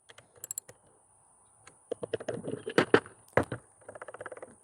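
Socket wrench on a skateboard axle nut: scattered clicks and small metal knocks, a busy cluster about halfway through, then a quick even run of ticks near the end as the nut is snugged up and backed off slightly.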